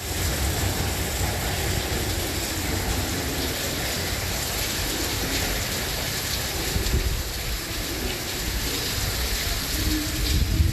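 Steady typhoon rain, with wind buffeting the microphone.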